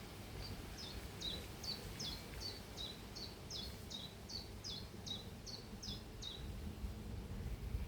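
A small bird singing a steady run of about fifteen short, high notes, each slurring downward, two or three a second, stopping a little over six seconds in. A low rumble of background noise sits beneath.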